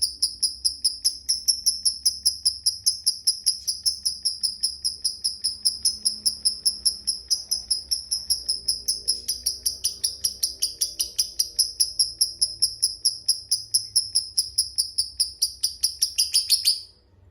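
Lovebird giving its long 'ngekek' chattering call: a fast, steady run of sharp, high-pitched chirps, about five a second, that stops abruptly near the end.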